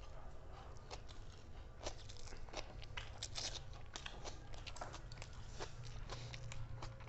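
Fast eating: crunching bites and chewing, with many short, irregular clicks scattered throughout.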